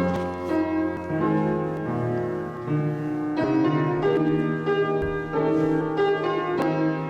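Keyboard instrument playing slow, held chords that change every second or so: a church postlude closing the service.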